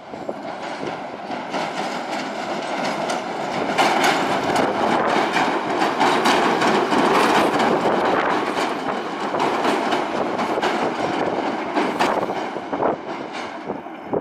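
Electric tube train, an Island Line Class 483 built from 1938 London Underground stock, running past on the pier railway. Its wheels clatter over the rail joints. It grows louder as the train comes close, holds for several seconds, then eases off near the end.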